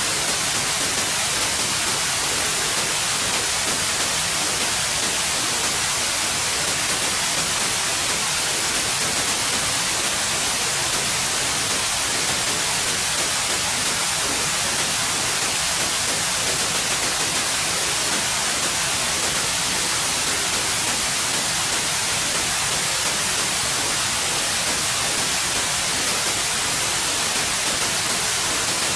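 Steady white noise: an even, unchanging hiss, bright and strongest in the high frequencies, with no breaks or events.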